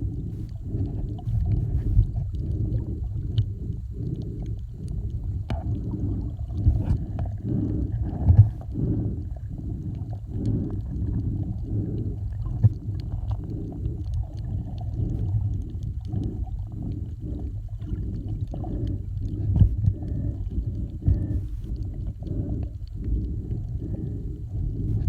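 Muffled low rumble of water sloshing against a kayak as it is paddled, pulsing regularly with the strokes, a little under two pulses a second.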